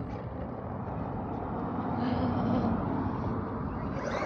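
A vehicle running, heard as a steady rumbling noise that swells a little around the middle.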